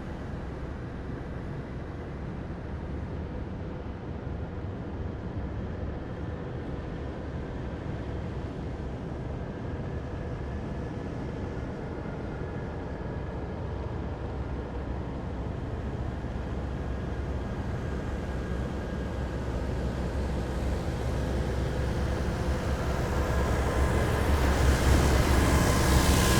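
Heavy military vehicles passing in a column, a continuous low engine rumble with a faint steady whine; one vehicle draws closer and grows louder over the last few seconds.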